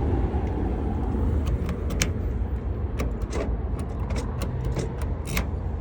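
Scattered light metallic clicks of a freshly cut key being worked in a car door lock, over a steady low rumble.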